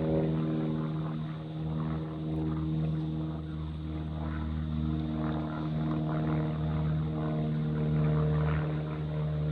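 Propeller aircraft flying by: a steady drone made of several evenly spaced hum tones, its pitch holding level.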